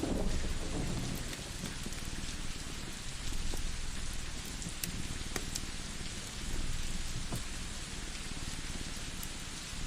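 Steady rain falling, with the tail of a low thunder rumble dying away in the first second. A few sharp crackles from a wood fire are scattered through it.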